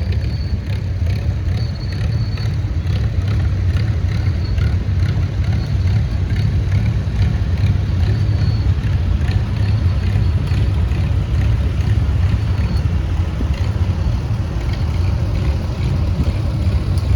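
Antique tractor engines running steadily with a low rumble as tractors drive past in a parade.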